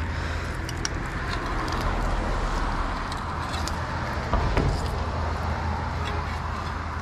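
Steady rumble of road traffic, with a single thump about four and a half seconds in.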